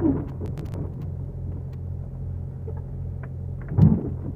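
Freightliner Cascadia's diesel engine on a cold start, a steady low rumble, with a short louder burst about four seconds in.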